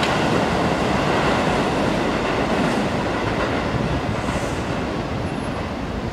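Keikyu 1000-series electric train departing, its wheels running over the rails and points with a steady rail noise that eases a little near the end as it draws away.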